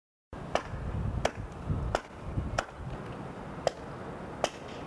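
A series of about six sharp, irregularly spaced knocks or clicks over a low rumble.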